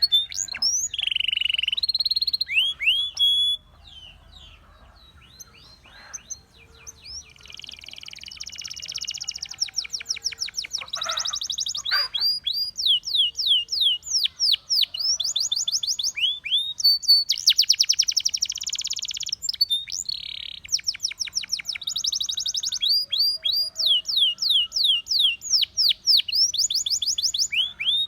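Domestic canary singing a long song. Fast, dense rolled trills alternate with runs of quick, clear notes that each sweep downward, with a quieter stretch about four to seven seconds in.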